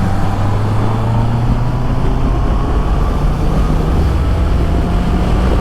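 Honda CB650R's inline-four engine running under way, heard through a helmet microphone over wind and road noise; its note steps up to a higher pitch about three seconds in.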